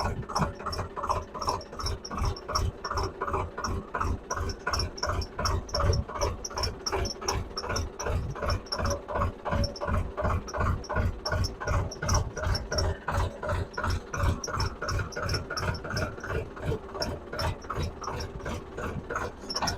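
Tractor engine running with a steady, rhythmic chug of about four beats a second.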